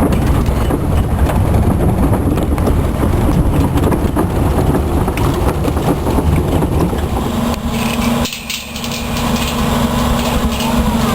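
Vehicle driving across a field: a loud, steady rumble of engine and tyres with small rattles, joined by a steady low hum about seven seconds in.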